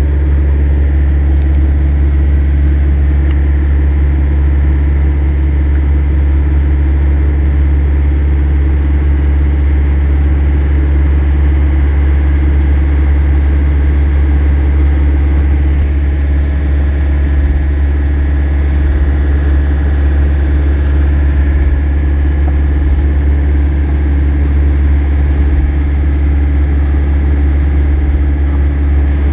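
A large engine idling, a loud, steady low drone that does not change.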